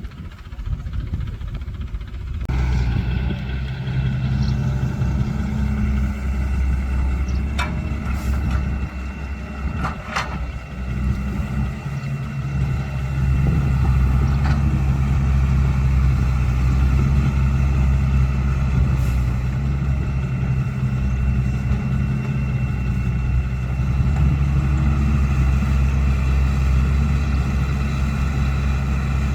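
Caterpillar 312 excavator's diesel engine running steadily under work, with steady higher tones over it and a few sharp knocks. It comes in abruptly a couple of seconds in and gets louder about halfway through.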